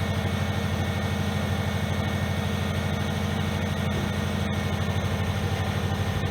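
Subaru flat-four boxer engine idling steadily with an even pulsing beat: the freshly installed replacement engine running after the swap.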